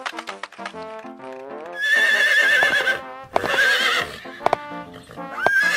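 Horse whinnying three times, each a loud, high, wavering call, with a few sharp hoof clops between them. Light melodic background music plays underneath, heard alone for the first second and a half.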